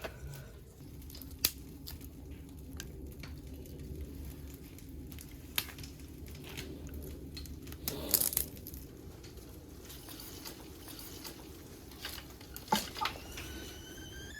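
Small wood fire of twigs and dry cedar needles burning in a compact secondary-combustion wood stove: a low steady rush of flame with scattered crackles and pops, the loudest about eight seconds in. Near the end a thin whistle starts and rises in pitch.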